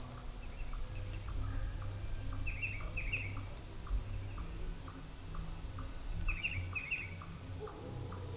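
Small birds chirping, with short bursts of quick chirps twice, each burst a pair, over a faint regular ticking about twice a second and a low rumble.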